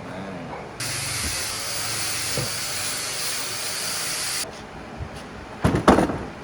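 Compressed air hissing in one steady blast of about three and a half seconds, starting and stopping sharply, then two loud knocks close together.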